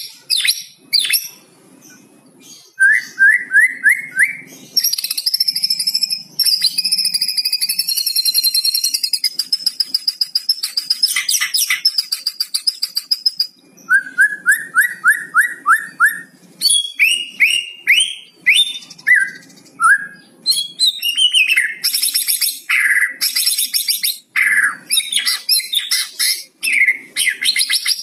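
White-rumped shama (murai batu) singing: varied whistled notes, quick runs of short rising notes, and a long buzzy, crackling rattle (the 'kretekan' call) through the middle.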